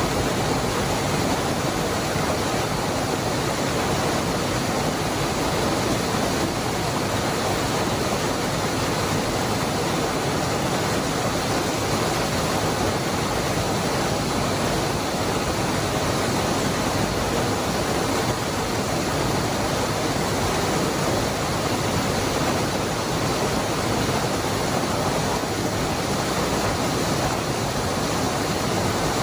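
Waterfall pouring in a steady, unbroken rush of water noise.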